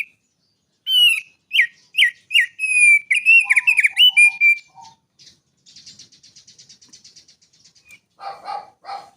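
Small songbird singing: a quick run of sharp whistled notes that each drop in pitch, then a fast, high, buzzy trill, and a few lower, harsher notes near the end.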